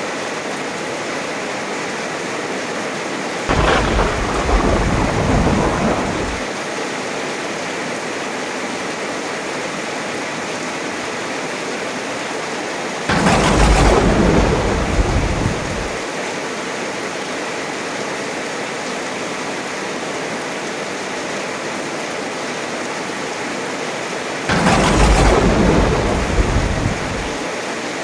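Steady heavy rain with three thunderclaps about ten seconds apart, each starting suddenly and rumbling on for about three seconds.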